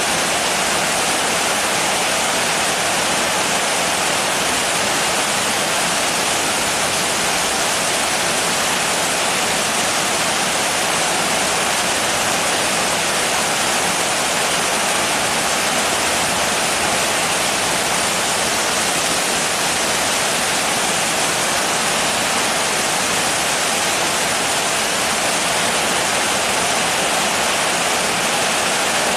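Steady heavy rain: an even, unbroken hiss with no separate drops, thunder or changes in level.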